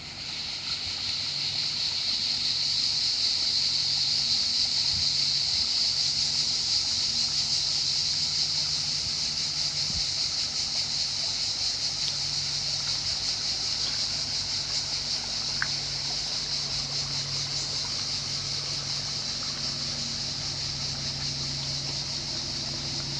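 Chorus of cicadas singing, a loud, steady, high buzzing. A low hum comes and goes underneath.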